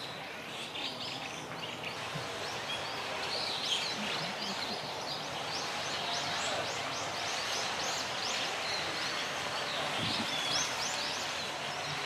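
Woodland birds calling: many short, high chirps in quick runs over a steady outdoor hiss, busiest from about halfway through.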